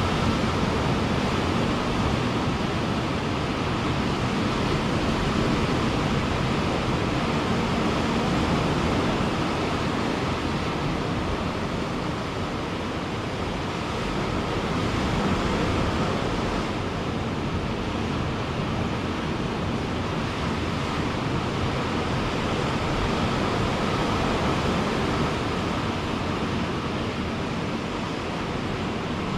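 Ocean surf breaking and washing ashore, a steady rush of water that swells and eases every few seconds.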